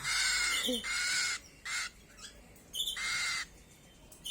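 Young birds giving harsh, raspy begging calls, four in a row with short high chirps between them: the hunger calls of fledglings asking to be fed.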